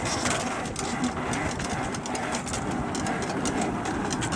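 Flying Scot's centerboard being hauled up by its line: the rope running through its block and cleat with a steady rattle of many small clicks.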